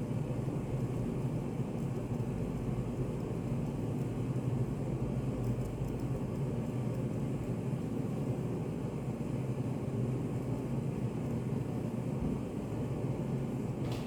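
Steady background white noise of a study café: an even low rumble with a constant low hum and no voices.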